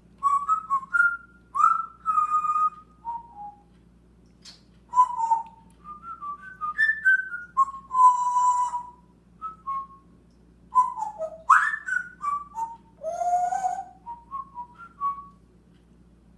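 A pet talking bird whistling a long string of short notes and pitch slides, with a couple of raspy, hissing notes among them. It stops a second or so before the end.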